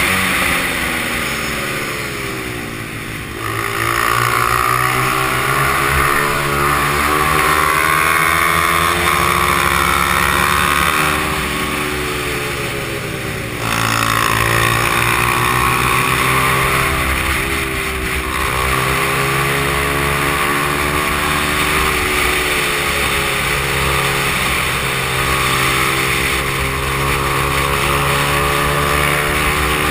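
Honda XR100's air-cooled single-cylinder four-stroke engine at race pace. Its pitch falls twice as it slows for corners, about three and thirteen seconds in, then climbs again as it accelerates back up through the revs.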